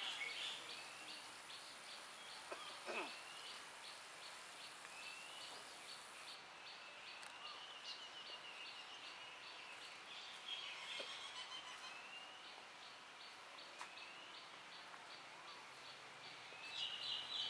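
Birds calling: short rising chirps every second or two over a faint steady hiss.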